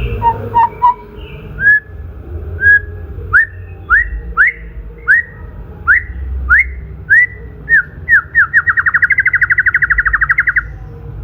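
White-rumped shama (murai batu) singing: loud, separate whistled notes, each sweeping up and dropping, coming closer together and breaking into a fast, even trill of repeated notes for about two seconds near the end.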